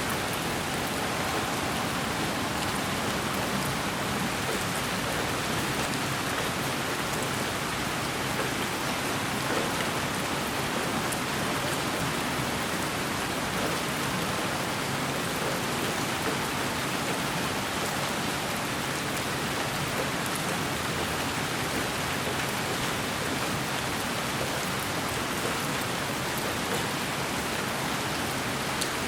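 Steady, unchanging white noise that sounds like rain falling on a surface: an even hiss spread across all pitches.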